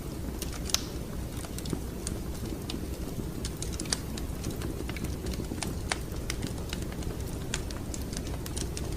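Wood fire crackling in a fireplace: irregular sharp snaps and pops, a few louder than the rest, over a steady low rumble.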